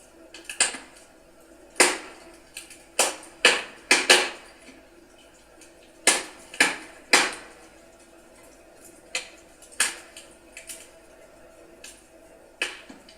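Wood fire crackling: burning logs give off irregular sharp pops and snaps, about a dozen, some in quick clusters, over a faint steady background.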